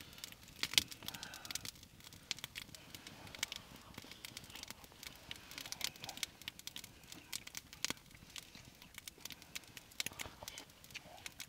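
Irregular crackling from cooking over a wood fire: a cast iron pan frying with butter on a wood-burning firebox, giving scattered sharp pops and clicks.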